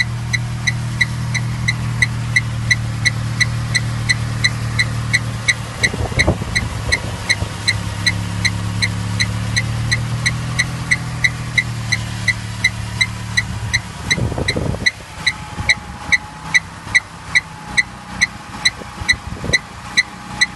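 Mercedes car engine running with a steady low hum, under a regular short high-pitched chirp a little more than twice a second. About three-quarters of the way through the hum drops away while the chirping carries on at the same rate.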